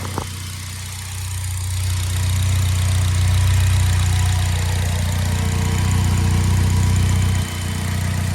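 2015 Polaris Slingshot's 2.4-litre four-cylinder engine idling shortly after a cold start, running smoothly. It grows louder over the first few seconds and drops back suddenly near the end.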